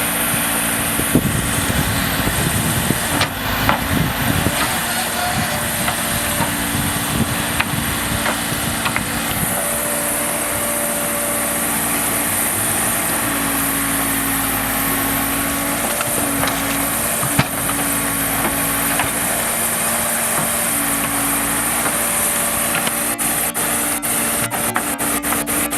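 Heavy diesel earthmoving machine engine running steadily, with clanks and knocks of the working machine in the first few seconds and a fast, even ticking toward the end.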